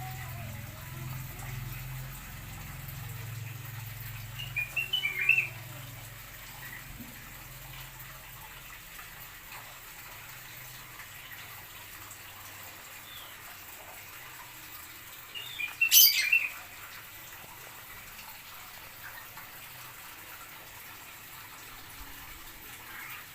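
Small cage birds chirping in an aviary: a short burst of high chirps about five seconds in and another about sixteen seconds in, the second with a sharp click. A faint steady background lies between them.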